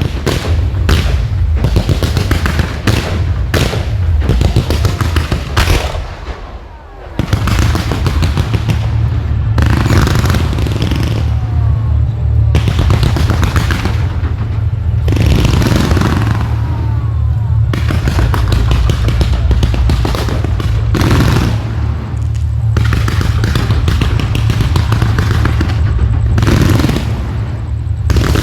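Fireworks display: rapid, overlapping bangs and crackling bursts over a steady low rumble, easing briefly about six seconds in before carrying on.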